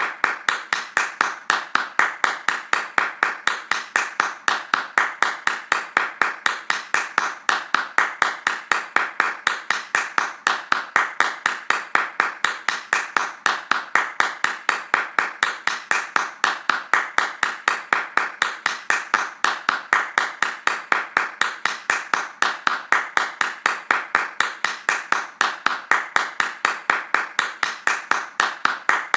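Hands clapping fast and evenly, about four claps a second, in a steady unbroken rhythm.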